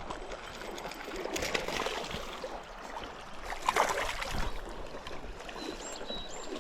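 River water running steadily, with a brief louder rush about four seconds in and a few faint high chirps near the end.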